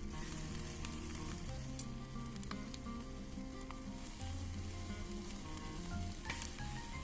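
Food sizzling as it cooks over a fire, a steady crackle with scattered small pops. Quiet background music with slow held notes plays underneath.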